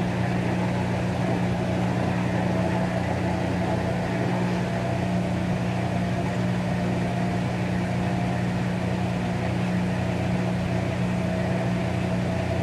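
Whirlpool Duet Sport front-load washer running an empty test cycle: a steady motor hum with constant low tones.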